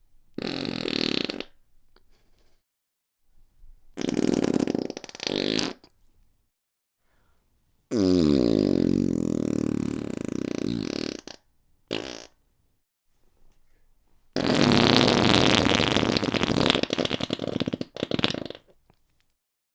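Fart sound effects in a series, with silent gaps between them: two shortish ones, a long pitched one about eight seconds in that starts with a falling pitch, a brief blip, and a long noisier one near the end.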